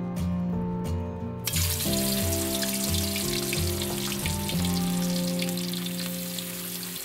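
Chicken pieces deep-frying in hot oil in a wok: a sizzle that starts suddenly about a second and a half in, as the chicken goes into the oil, and then keeps on steadily.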